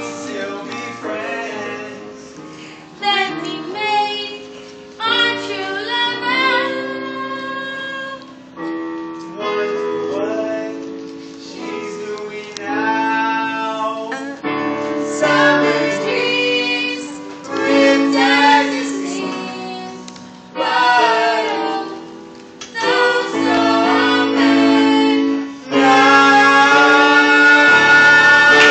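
Music: a female voice singing phrases over instrumental accompaniment. About 26 seconds in the music turns louder and fuller.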